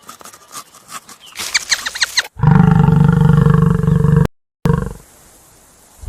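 A burst of high squeaks, then a loud, low, drawn-out animal roar that breaks off briefly about four seconds in and fades soon after.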